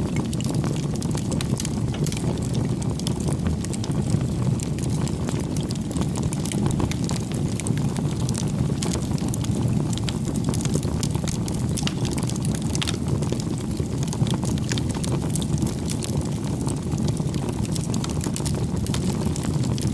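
Wood fire crackling: many small sharp pops and snaps over a steady low rumble.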